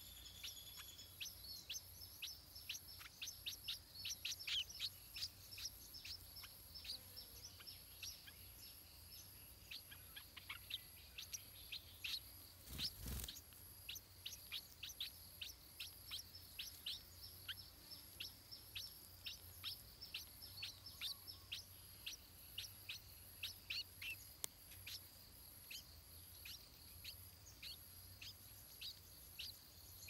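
Short, high bird chirps, each a quick downward sweep, repeated several times a second, densest in the first few seconds. A single soft thump comes about thirteen seconds in.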